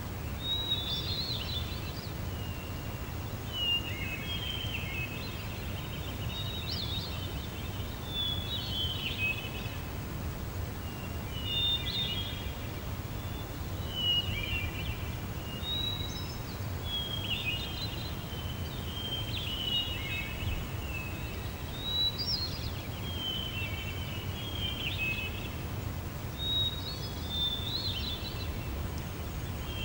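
A songbird singing short phrases over and over, about one every two seconds, over a steady low background rumble.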